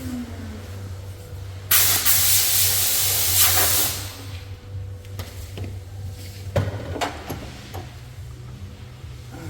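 A loud blast of pressurised air hissing for about two seconds, followed by a few light clicks and knocks over a steady low hum.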